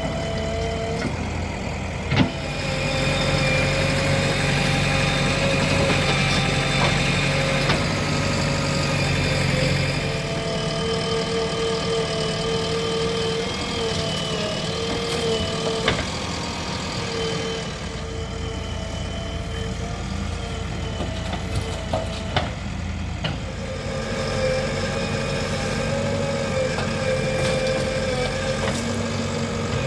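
Diesel engines of a backhoe loader and tractor running steadily at work, with a wavering pitched tone and a few sharp clanks. The running is louder from about two to ten seconds in.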